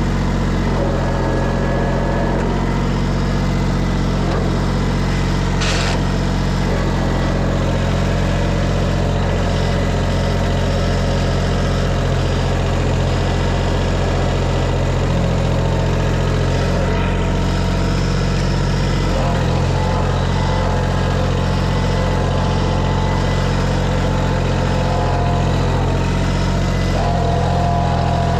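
Farm tractor engine running steadily while working, its note shifting a few times as the load changes. There is a single sharp click about six seconds in.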